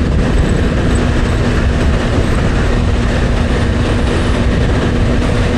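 Motorcycle riding at a steady cruising speed: wind rushing over the microphone over a steady, unchanging engine hum.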